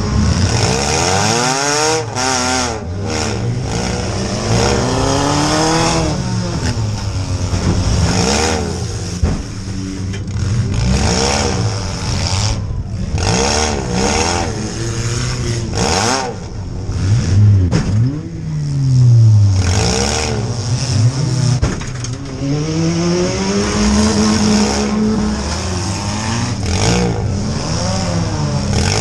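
Compact demolition derby car's engine, heard from inside the gutted cabin, revving hard and dropping again over and over as it drives, with other derby engines running around it. Several sharp knocks and bangs cut through the revving, the loudest a little past halfway.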